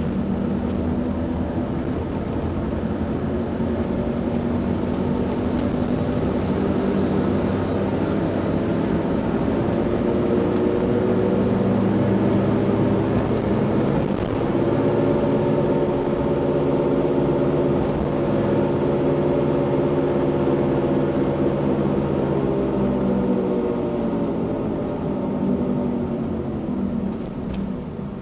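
Car engine running under acceleration, its pitch rising slowly, with a change in the note about halfway through. Near the end the pitch falls and the sound grows quieter.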